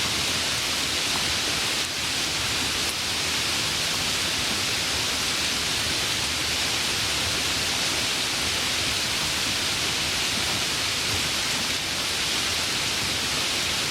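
Steady, even rain hiss, a dense patter with no single drops standing out.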